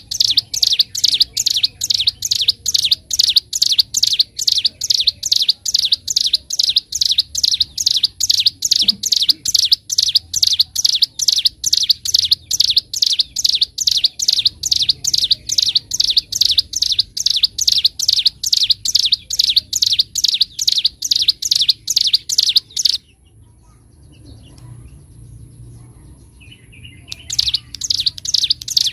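Ciblek gunung (a prinia) singing a fast, even string of sharp, high chirping notes, about two to three a second. The song breaks off about two-thirds of the way in, pauses a few seconds, and starts again near the end.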